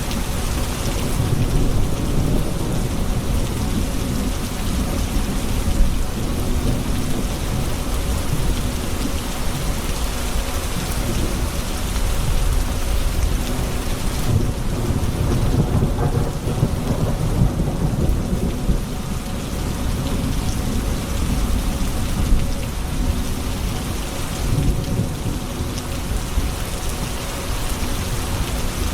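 Steady rain falling during a thunderstorm, with low rolling thunder that swells and fades several times.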